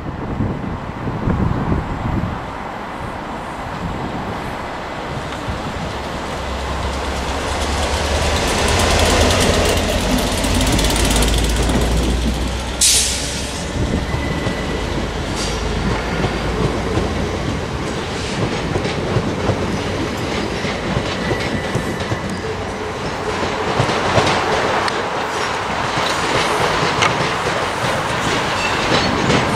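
Railway station sounds: a train standing close by with a low hum, then a short sharp hiss about 13 seconds in. A pair of Class 67 diesel locomotives comes in running light, with wheel squeal over the pointwork growing near the end.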